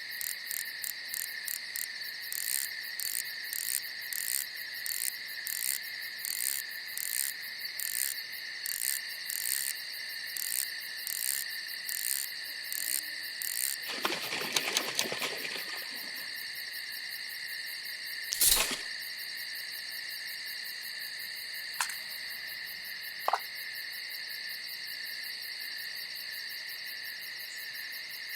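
Night chorus of crickets: a steady high trilling with a pulsing chirp about twice a second through the first half. About halfway through there is a brief rustle, then a sharp click, and two fainter clicks later.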